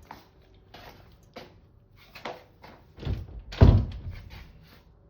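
A series of knocks and thumps, irregularly spaced, the loudest a heavy, deep thump about three and a half seconds in.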